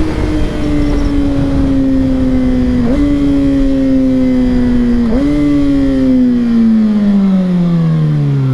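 Kawasaki ZX-6R 636 inline-four engine with its revs falling steadily as the bike slows on the throttle, the note lifting briefly twice, about 3 and 5 seconds in, under steady wind rush.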